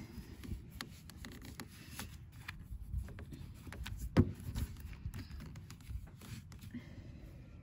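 Faint handling sounds: light rubbing with scattered small clicks, and one sharper knock about four seconds in.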